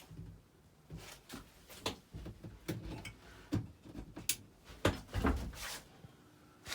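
Irregular knocks, clicks and rustling of handling and movement in a small room, a dozen or so sharp knocks scattered through it, the loudest about five seconds in.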